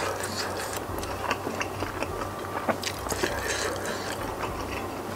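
Close-miked wet chewing and mouth sounds of a person eating spicy meatball soup, with scattered small clicks as a wooden fork prods into the soft food in broth.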